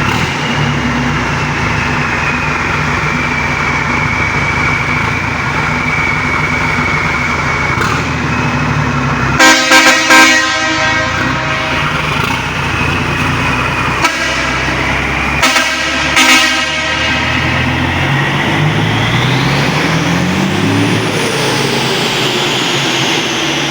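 Nissan truck's GE13 V8 diesel running steadily while its horn is sounded in two loud bursts of short toots, about ten and sixteen seconds in. Near the end a rising whine sweeps upward over the engine.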